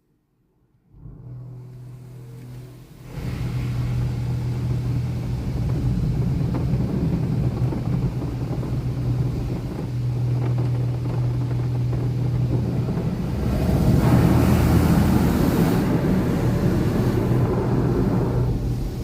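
Automatic car wash machinery running, a steady droning hum with water spray, starting about a second in, louder a couple of seconds later, and loudest and hissiest about two-thirds of the way through.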